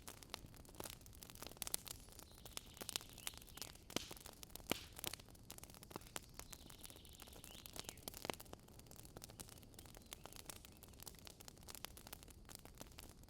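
Wood campfire crackling: irregular sharp pops and snaps over a soft steady rush of burning. A faint, thin high tone comes and goes twice.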